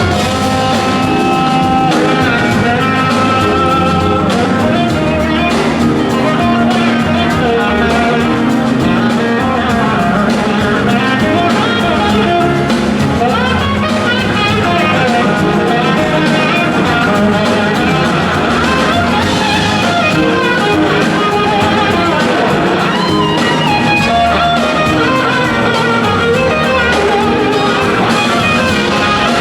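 Live blues-rock band playing, with guitar to the fore over bass and a drum kit.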